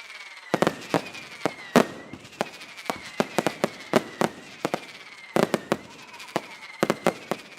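Daytime fireworks: a rapid, irregular string of sharp bangs from aerial salutes, several a second. Under them runs a continuous hiss with whistles that repeat and drop slightly in pitch.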